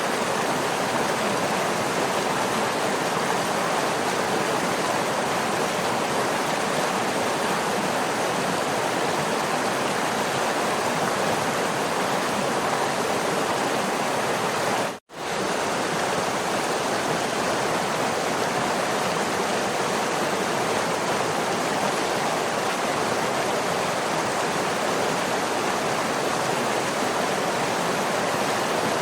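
Waterfall: steady, dense rushing of falling water. About halfway through it cuts out for a split second and comes straight back.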